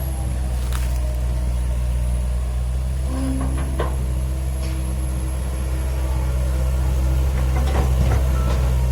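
Heavy diesel earthmoving machinery running steadily: a constant low engine drone with a few faint knocks and clanks from working parts.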